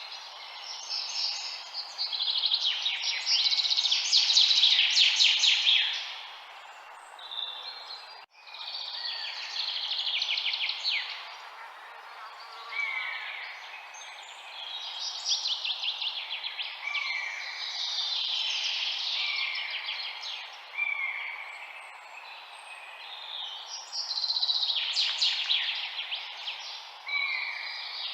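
A chorus of songbirds chirping and singing over one another, with rapid trills and short down-slurred calls, over a steady background hiss. The sound drops out for a moment about eight seconds in.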